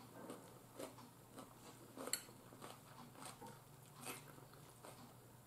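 Faint close-up chewing and mouth smacks from someone eating pasta, with scattered light clicks, the sharpest about two seconds in.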